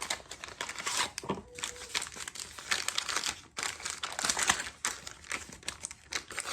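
Crinkling and rustling of packaging being handled, in a run of irregular short bursts.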